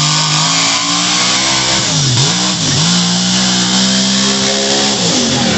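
Monster truck engine running hard at high revs, its pitch dropping sharply twice about two seconds in as the throttle comes off and back on, then held high again and easing off near the end.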